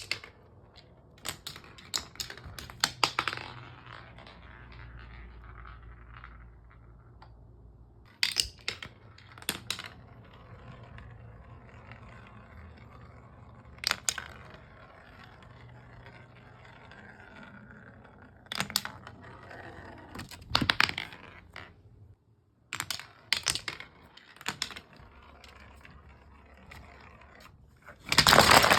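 Marbles rolling along a Hape wooden marble run, a continuous rumble broken by sharp clicks and clacks as they drop onto and strike the wooden pieces. A dense burst of clattering comes near the end.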